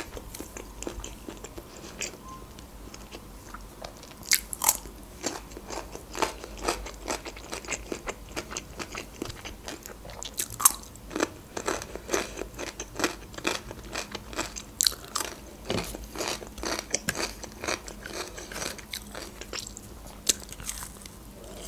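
Close-up crunching and chewing of a fresh cucumber stick: a steady run of irregular crisp crunches and wet mouth clicks, a few of them louder.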